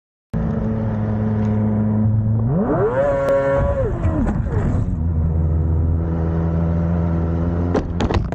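A motor vehicle's engine running steadily, revved up once about three seconds in, held briefly, then dropping back to a steady run. A few sharp clicks come near the end.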